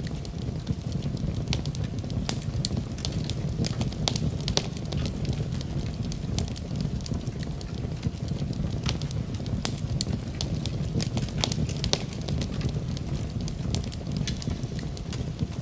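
Wood fire crackling in a fireplace: frequent, irregular sharp pops and snaps over a steady low rumble, mixed with falling rain.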